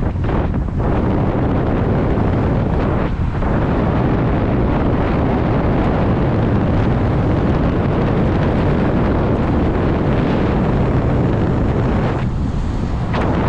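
Loud, steady wind rushing over a helmet-mounted GoPro's microphone.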